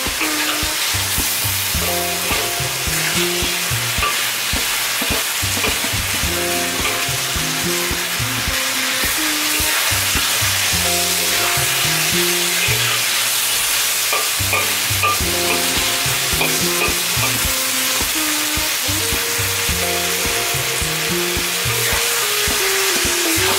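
Onions and pork chops sizzling in sauce in a hot wok, with a spatula stirring and tossing them: a steady, loud frying sizzle. Background music with a stepping bass line plays underneath.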